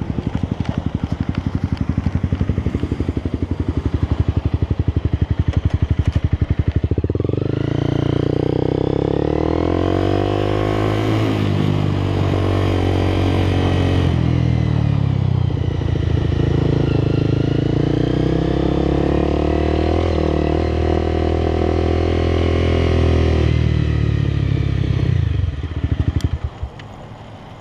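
Motorcycle engine idling with a rapid, even firing beat, then from about seven seconds in running under way, its note rising and falling with the throttle, before it drops away near the end.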